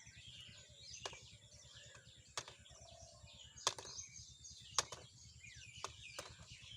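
Many small birds chirping over a faint low rumble, with sharp clicks about once a second that are the loudest sounds.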